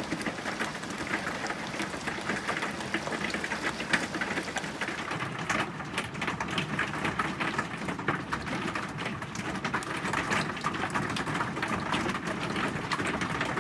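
Hail hitting the roof and shell of an RV, heard from inside: a dense, steady patter of many small impacts, with one louder hit about four seconds in.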